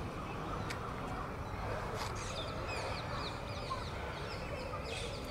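Birds calling in trees: a quick run of short, high chirps about two seconds in, over steady low background noise.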